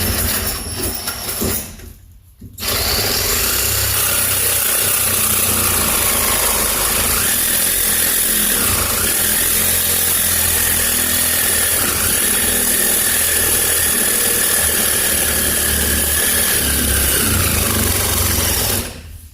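Cordless reciprocating saw (Sawzall) cutting metal on a truck's rear suspension. A couple of short bursts come first, then a steady run from about two and a half seconds in, its motor note dipping and rising with the load, until it cuts off abruptly near the end.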